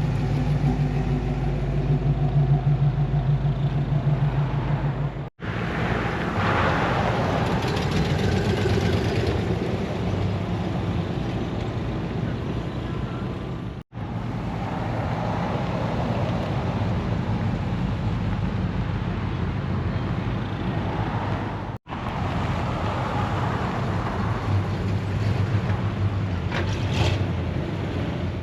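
A car engine idling with a steady low pulsing rumble for the first few seconds. Then come further clips of engine and outdoor background noise, separated by abrupt cuts about every eight seconds.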